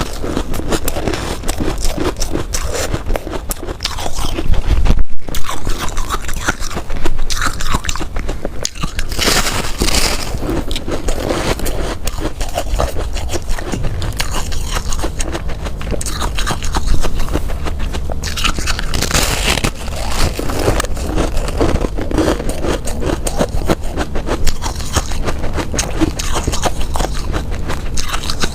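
Ice being bitten and chewed: continuous crunching and cracking with many sharp snaps, louder in a few stretches.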